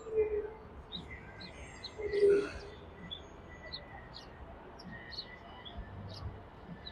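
Small birds chirping, many short high chirps over a low background rumble, with two brief louder low tones, one just after the start and one about two seconds in.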